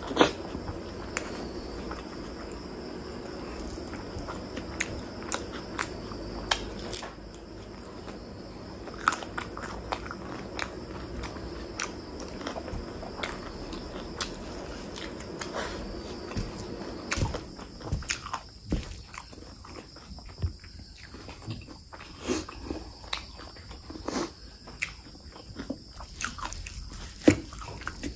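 Close-miked chewing and wet mouth smacking of a person eating rice and chicken curry, with many short sharp clicks, over a faint steady hum that drops away about two-thirds of the way through.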